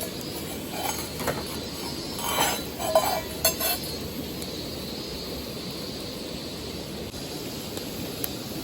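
A handful of light clinks of hard objects knocking together, clustered between about one and four seconds in and loudest around three seconds, over a steady background noise.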